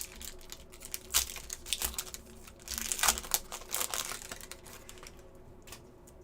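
Crinkling of a foil trading-card pack wrapper and cards being handled: quick rustles and small clicks that thin out about five seconds in.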